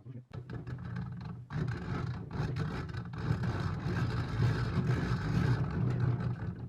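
Restored Soviet-era drill (1955–1980) running with a steady motor whir, louder from about a second and a half in, then cutting off suddenly.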